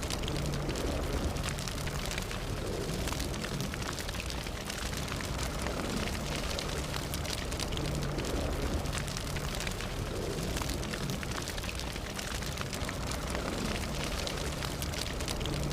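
Fire burning, with frequent sharp crackles and pops over a steady low rumble of flames.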